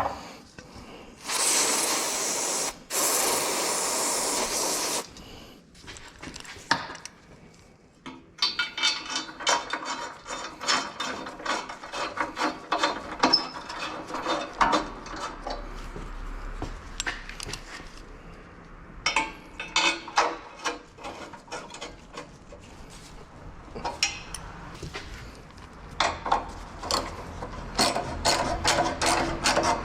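Two long hisses of an aerosol parts-cleaner spray near the start, then a long stretch of hand-tool work: rapid clicks, scraping and ratcheting.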